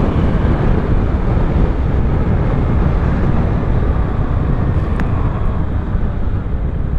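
Motorcycle riding noise: wind rushing over the camera microphone, with engine and road noise underneath, steady throughout. A single brief click about five seconds in.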